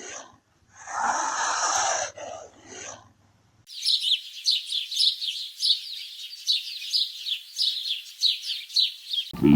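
An animal's loud, breathy blast, followed after a short gap by a quick run of high chirps, about four a second, each sweeping downward.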